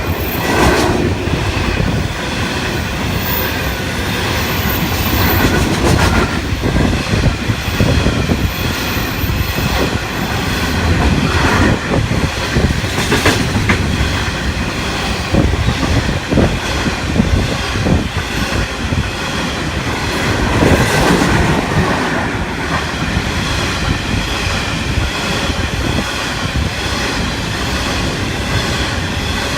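Freight train hauled by 82 class diesel locomotives rolling through the station. Its wagons pass in a continuous loud rumble, with repeated clicks of wheels over rail joints.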